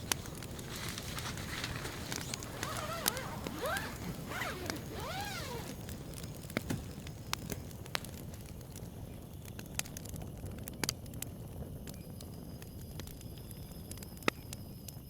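Campfire crackling, with scattered sharp pops over a low steady rumble. A short run of rising-and-falling calls sounds from about two and a half to five and a half seconds in.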